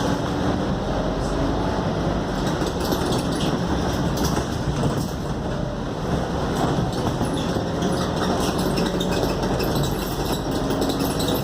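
Interior of a Scania K280UD double-decker bus on the move: steady engine and road noise with rattling from the body. Faint whines rise slowly in pitch now and then.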